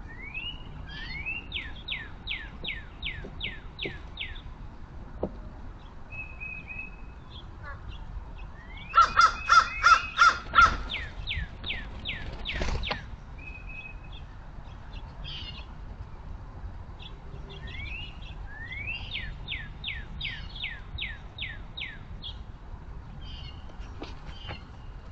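A crow caws five times in quick succession, loud and harsh. Another songbird twice sings a run of about eight quick, rising whistled notes, and scattered chirps come between.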